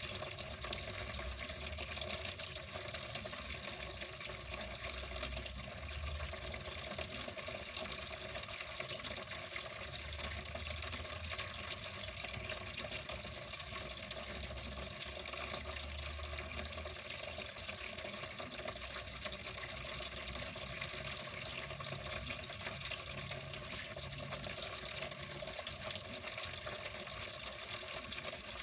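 Water flowing steadily, an even splashing rush that does not change.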